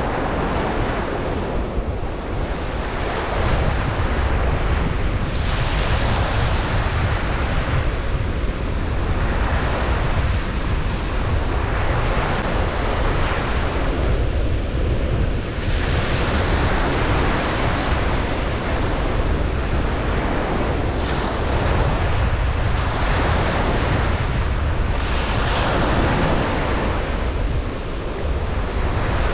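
Ocean waves breaking and washing onto a beach, a continuous surf with swells every few seconds over a steady low rumble, with some wind noise on the microphone.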